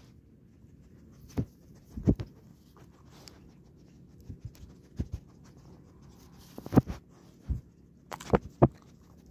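Dogs eating dry dog food close by, giving irregular short crunches and clicks of kibble between their teeth, some sharper and louder than others.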